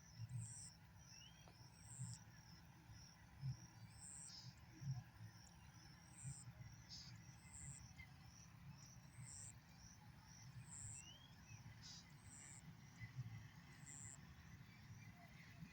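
Faint rural outdoor ambience: short high-pitched chirps repeating about once a second over a faster, fainter chirping, with low uneven rumbling underneath.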